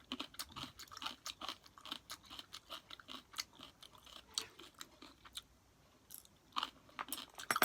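A person chewing kimchi close to the microphone: a steady run of quick, crunchy mouth clicks, with a short pause about six seconds in.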